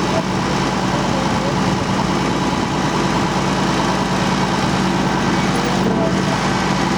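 Heavy vehicle engine idling steadily with a constant low hum.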